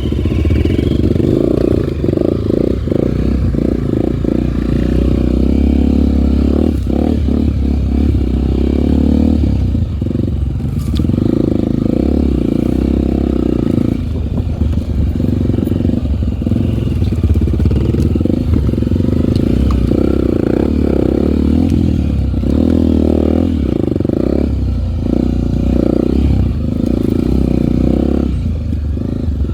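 Single-cylinder four-stroke Honda trail motorcycle engine running while ridden off-road, its note dropping and rising again and again as the throttle is opened and closed, with a few knocks and rattles.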